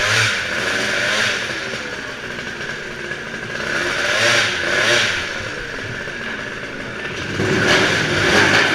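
Monster truck engine revving, its pitch rising and falling again and again, growing louder about seven seconds in.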